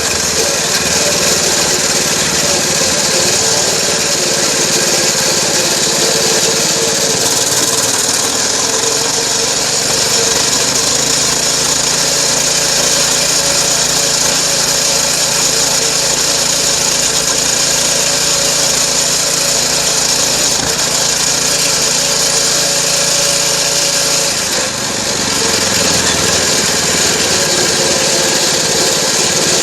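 Dirt bike engine running while riding, with heavy wind noise on a microphone mounted on the bike; the engine note shifts about eight seconds in and dips briefly near twenty-five seconds.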